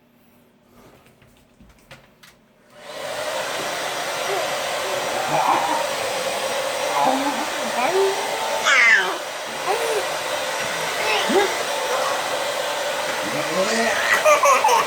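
Hair dryer switched on about three seconds in and running steadily. Over it come a baby's short squeals and giggles, set off by the dryer's noise.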